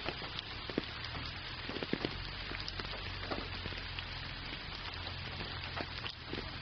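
Steady rain: a dense, even hiss with many separate drops ticking sharply on top of it.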